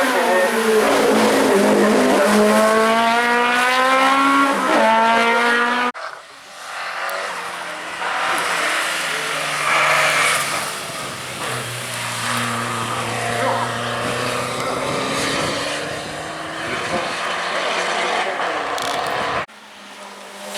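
Race cars on a hill-climb course accelerating hard, each engine's pitch climbing as it revs up through the gears. The sound cuts abruptly twice from one car to another.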